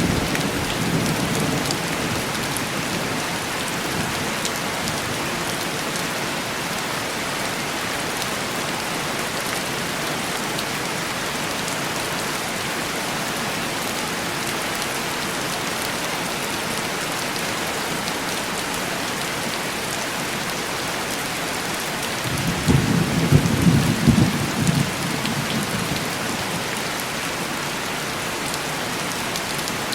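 Steady heavy rain falling on window glass, with low rolls of thunder: a soft rumble at the start and a louder one about three-quarters of the way through.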